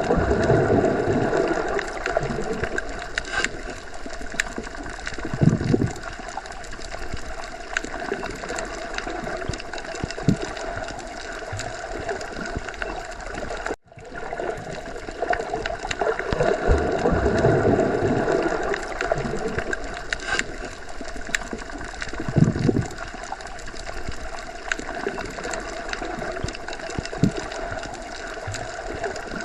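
Underwater sea ambience: a steady watery hiss with slow, low swells of bubbling and a few sharp clicks. The same stretch repeats about every 17 seconds, and the sound drops out for a moment about 14 seconds in, where the recording loops.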